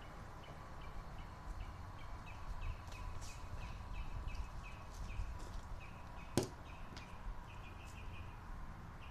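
A bird calling in short repeated chirps, about two or three a second, over a low steady rumble; a single sharp click about six seconds in.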